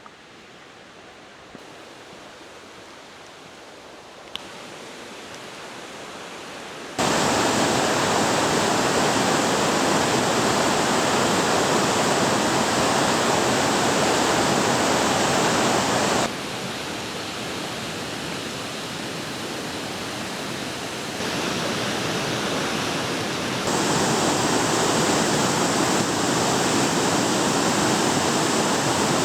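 Waterfall, its falling water making a steady, even rush. It is faint at first and slowly grows, becomes suddenly much louder about seven seconds in, and later steps abruptly down and back up in level.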